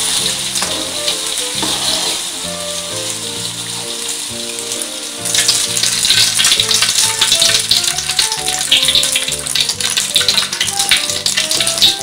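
An egg omelette sizzling as it fries in hot oil in a wok, with background music playing. The sizzle gets suddenly louder about five seconds in, as the omelette is turned back down into the oil, and crackles after that.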